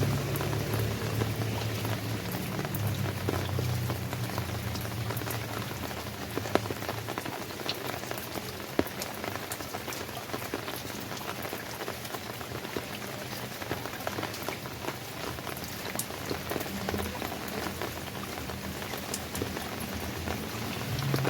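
Steady rain falling, an even hiss scattered with the sharp ticks of individual drops striking a surface. A low rumble sits underneath, strongest at the start and again near the end.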